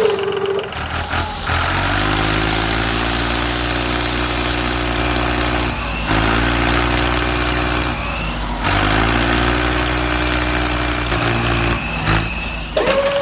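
A vehicle engine idling steadily, cut off abruptly and picked up again a few times.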